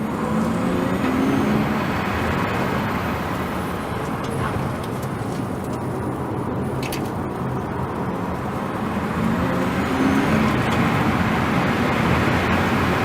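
Car driving at speed: a steady rush of tyre and wind noise with a low drone that swells about a second in and again near the end.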